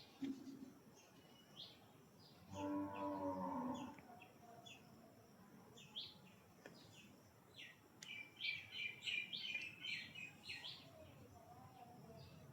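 A small pet bird chirping in short, high notes, scattered at first and then in a quick, busy run in the second half. About two seconds in, a loud, low, drawn-out call lasts about a second and a half.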